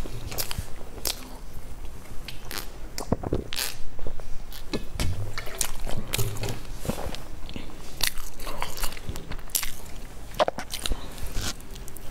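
A person biting into and chewing a crumb-coated baked pastry close to a clip-on microphone, with irregular crisp crunches.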